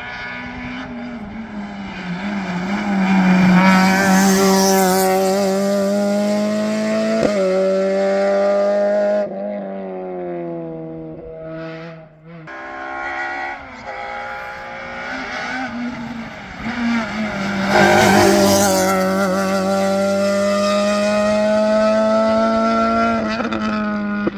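Modern rally car engines at full throttle on a special stage, climbing in pitch through the gears. The engine note breaks off sharply about nine seconds in, dips again near twelve seconds, then climbs to a second loud peak around eighteen seconds.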